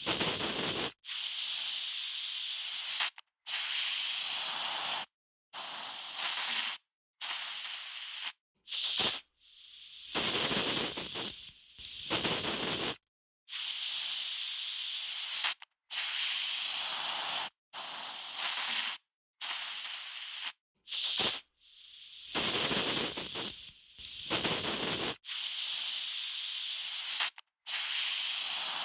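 Aerosol spray can being sprayed in a series of short bursts, about a dozen, each a bright hiss of half a second to two seconds with brief silent gaps between.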